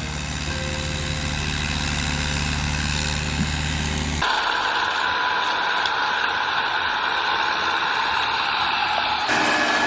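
Heavy machine engine running steadily with a low, even hum. About four seconds in it cuts abruptly to a different, higher-pitched machine noise, and the sound changes abruptly again near the end.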